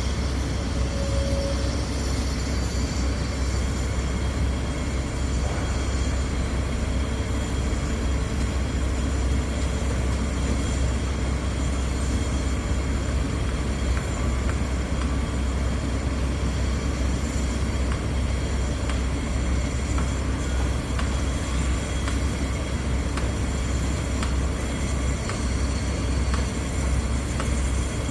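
Truck-mounted 56 m boom concrete pump running: a steady, heavy engine drone with a strong low rumble that holds level throughout.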